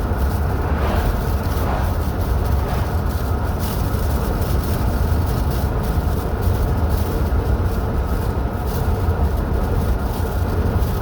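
A car driving at a steady speed: a constant low rumble of engine and tyre noise with no change in pitch.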